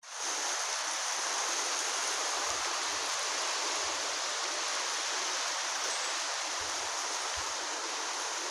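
Steady hiss of rain falling, with a few faint low rumbles of wind buffeting the microphone.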